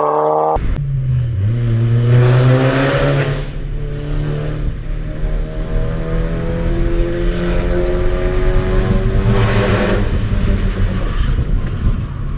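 Volkswagen Golf MK6 R's turbocharged four-cylinder through an ARMYTRIX aftermarket exhaust, pulling under acceleration. Its pitch climbs slowly, drops about three seconds in and again near the end, as at gear shifts.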